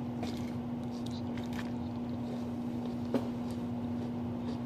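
Quiet eating sounds, scattered faint clicks and one sharper click about three seconds in, from a fork and salad container and from chewing, over a steady low hum.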